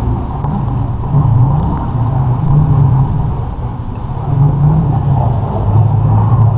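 Motorcycle engine idling with a low rumble that swells and eases, over a steady hiss of heavy rain and wind on the microphone.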